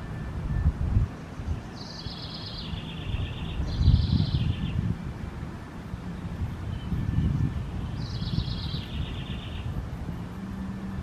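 A songbird singing three trilled phrases, each stepping down in pitch partway through, over low rumbling noise on the microphone that swells loudest about a second in and again around four seconds in.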